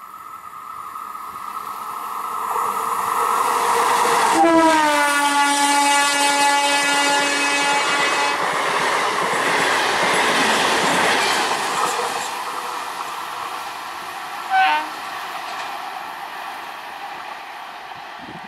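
Train approaching and passing close by with its horn sounding. The horn's pitch drops sharply as the train goes by, and the wheels clatter loudly for several seconds. A brief second horn toot comes near the end.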